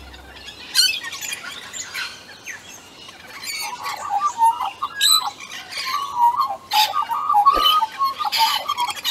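Several birds calling at once, a busy mix of quick chirps and squawks that grows denser in the second half.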